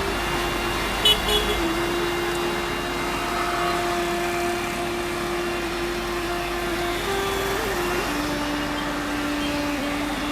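A motor vehicle running with steady road noise. Its engine tone drops in pitch twice, a little under two seconds in and again about eight seconds in. There is a short click about a second in.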